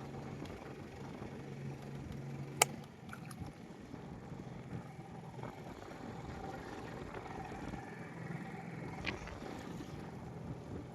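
Steady noise on a fishing boat, with a low hum that stops about three seconds in. A sharp click comes a little before the hum stops, and a fainter one comes near the end.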